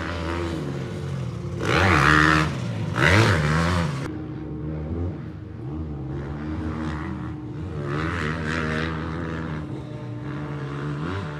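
Motocross dirt bike engine revving up and down on the track, with sharp bursts of throttle about two and three seconds in and another rise of revs around eight seconds.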